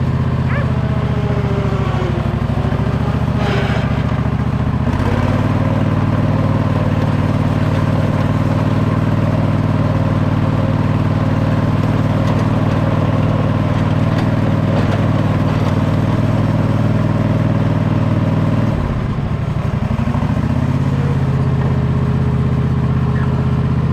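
A motor-vehicle engine running steadily, its speed dipping briefly about two seconds in and again near the nineteen-second mark before picking back up.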